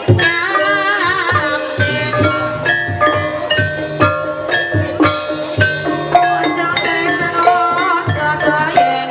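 Javanese ebeg accompaniment music: a busy pattern of struck pitched percussion over regular drum strokes, with a wavering sung melody line.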